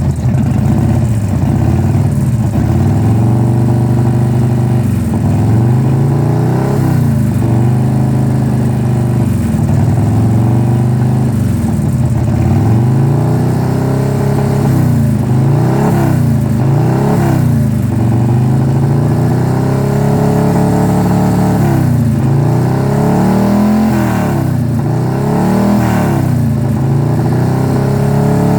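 Car engine being revved in repeated short throttle blips, its pitch rising and falling back every second or two, with the knock sensor newly relocated.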